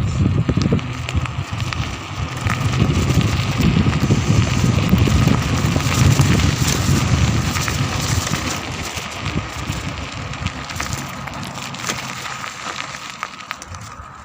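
Wind buffeting the microphone as a low rumble, with a dense crackly rustling over it; both fade toward the end.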